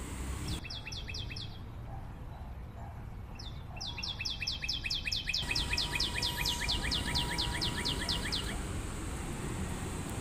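A bird calling in quick runs of short, falling chirps: a brief run of about five near the start, then a longer run at about five chirps a second from about four seconds in until near the end.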